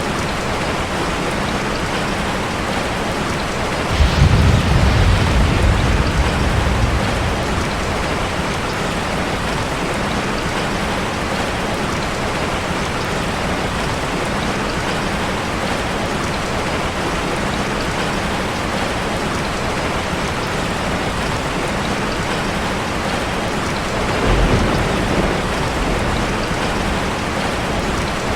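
Steady rushing water, heard as an even hiss like a waterfall or heavy rain, from a layered sleep-ambience track. Low rumbles swell up twice, about four seconds in and again near the end.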